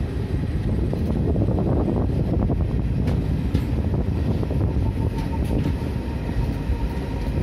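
Passenger train running, heard from on board at an open door or window: a steady rumble of wheels on the rails, with a few faint clicks.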